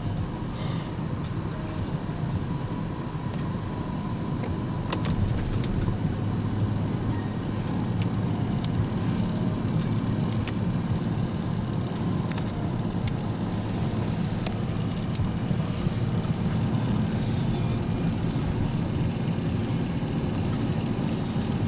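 Steady road noise heard from inside a moving car: a low rumble of engine and tyres under an even hiss.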